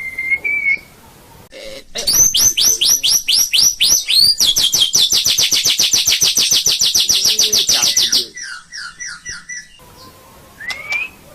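White-rumped shama (murai batu) singing: a short whistle, then a run of loud downward-sweeping notes that speeds up into a long, very rapid trill lasting about four seconds. It trails off into softer notes and a rising whistle near the end.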